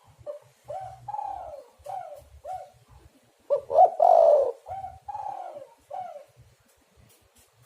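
Spotted dove cooing: a run of soft, short coos that fall in pitch, then about three and a half seconds in a louder phrase of quick rising notes running into a long coo, followed by more soft coos that stop about six seconds in.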